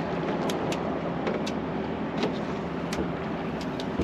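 Boat engine running steadily under a wash of noise, with scattered light clicks and ticks.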